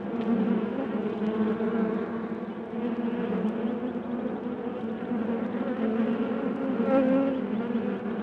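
Honey bees buzzing: a steady hum.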